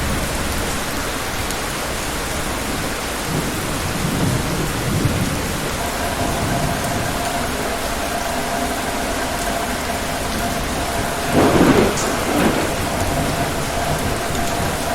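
Steady rain falling, with low rolls of thunder. A louder thunderclap with a sharp crack comes about three-quarters of the way through.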